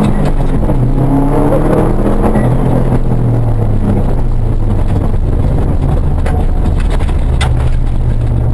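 Rally car engine heard from inside the cabin at speed, its pitch rising and falling for the first few seconds and then settling into a steadier low drone over road noise. A couple of sharp clicks come in the second half.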